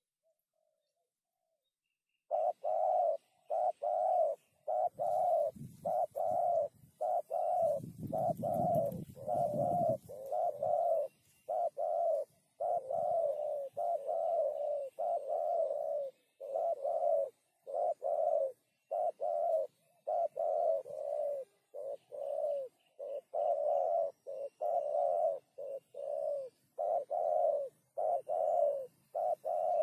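Spotted dove (tekukur) cooing: a long run of short, low coo notes repeated in a steady rhythm, starting about two seconds in. A low rumbling noise sits under the calls from about five to ten seconds in.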